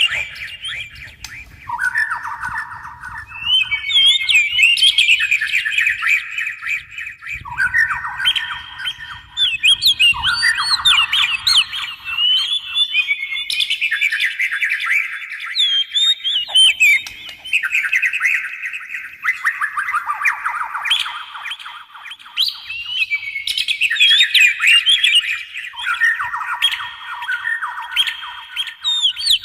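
Oriental magpie-robin and white-rumped shama song: loud, varied whistles and chattering phrases in blocks that jump abruptly to a new pitch every one to three seconds.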